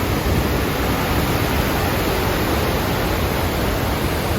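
Montmorency Falls' water rushing, a loud, steady roar of falling water.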